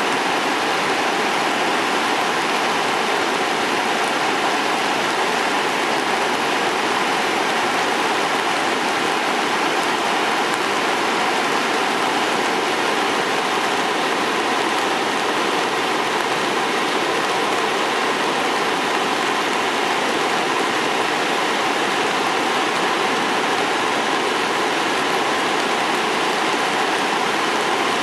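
Steady, unbroken rush of Sogi Falls, a broad waterfall on the Sendai River, running in flood with the river swollen by days of rain.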